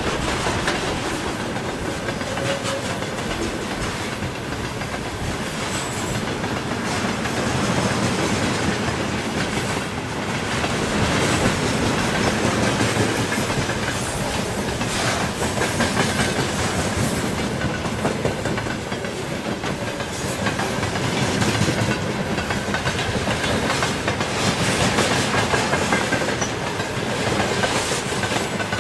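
Freight train wagons rolling past on steady, continuous rail noise, wheels clacking over the rail joints, with a faint high wheel squeal that comes and goes.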